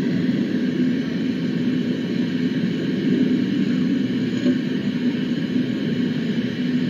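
Steady low rumble of background noise with a faint steady hum in it, and no distinct events.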